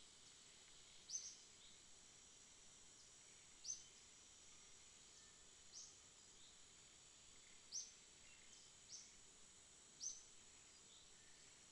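Faint night ambience: a steady high-pitched insect hum, with six short high chirps at irregular gaps of one to two and a half seconds.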